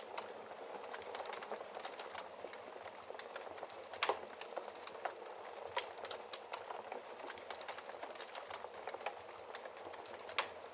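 Wood fire in a fireplace crackling steadily, with a dense run of small ticks and snaps. Two louder pops stand out, about four seconds in and near the end.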